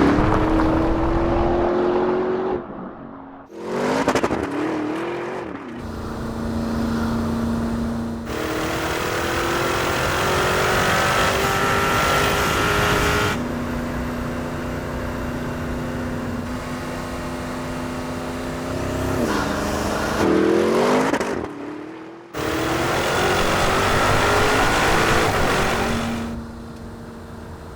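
Porsche Cayenne Turbo GT's 4.0-litre twin-turbo V8 running hard under acceleration, its pitch climbing steadily in each gear. A few quick sharp revs come about a third and about two-thirds of the way in. The sound breaks off abruptly several times between cut-together passages.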